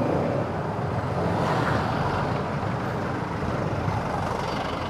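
Steady road noise of a motorcycle ride in traffic: the bike's engine and the surrounding vehicles make an even rumble with no distinct events.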